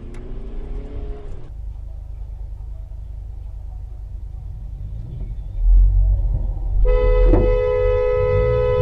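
Low vehicle rumble that grows louder about five and a half seconds in. Near the end a car horn sounds, held steadily.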